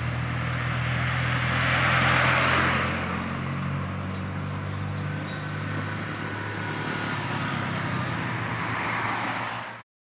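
Street traffic: a steady engine hum with a vehicle passing close by about two seconds in and another approaching near the end, before the sound cuts off suddenly.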